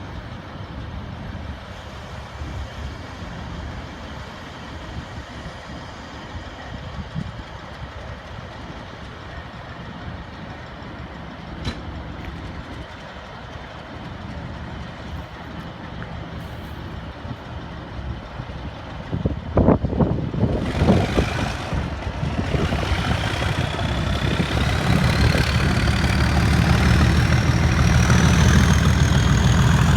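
Diesel engine of a rail test train idling with a steady low drone. About two-thirds of the way through come a couple of loud bursts of noise, then the engine grows steadily louder with a high whine rising in pitch, as when the train pulls away.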